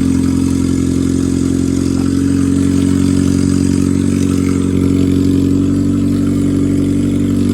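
Honda K-series engine swapped into a Toyota MR2, running at a steady, fast idle, loud throughout.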